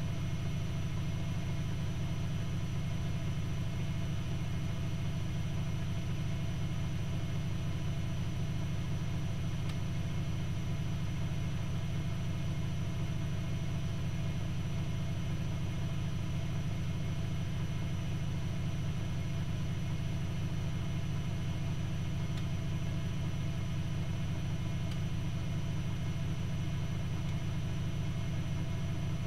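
Privileg Multispar 5110 washing machine running with a steady, unchanging low motor hum.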